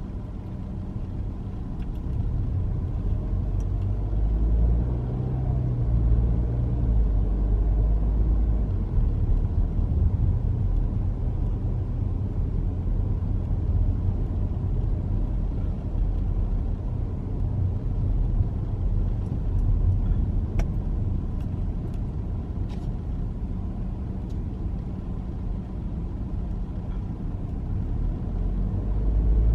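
A car driving along a road, heard from inside: a steady low rumble of engine and tyres.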